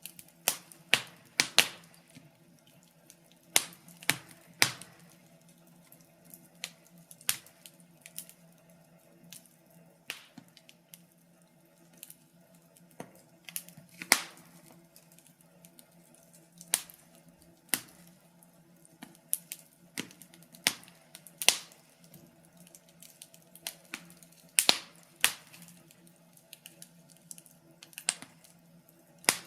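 Wood fire crackling: irregular sharp pops and snaps of varying loudness, a few every couple of seconds, over a faint steady low hum.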